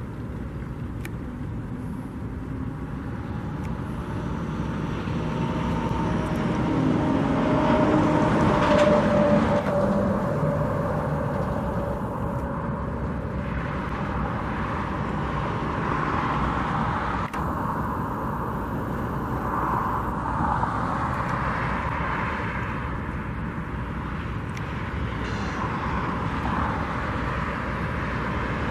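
Road traffic going by, with one vehicle passing close and loudest about eight to nine seconds in, then fading.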